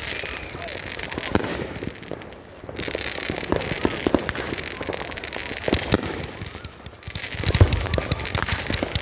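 Raccoon 'Willow King' 500 gram consumer fireworks cake firing: aerial shots bursting overhead amid a continuous crackling hiss and scattered sharp pops, with a deep boom about seven and a half seconds in.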